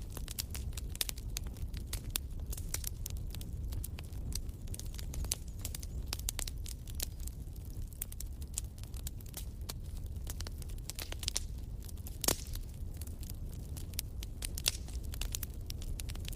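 Wood fire in a fireplace crackling, with many small irregular snaps over a low rumble of the flames and one louder pop about twelve seconds in.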